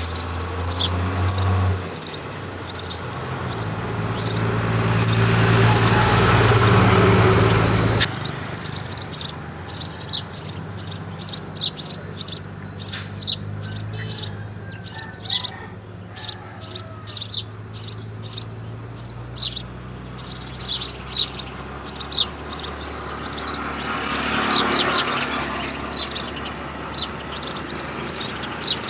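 House sparrows chirping, short high cheeps repeated about twice a second without a break. A broad rushing noise swells and fades twice, in the first third and again near the end.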